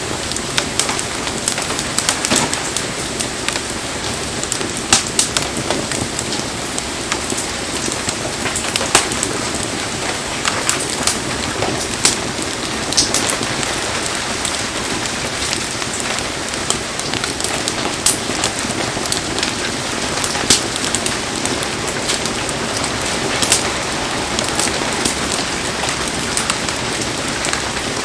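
Heavy rain falling steadily, with frequent sharp ticks and pops scattered through the hiss.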